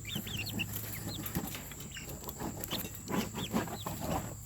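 Chicks peeping: quick, high, rising-and-falling chirps, densest in the first second and again around three seconds in. Scattered scuffing and rustling noises run under them in the second half.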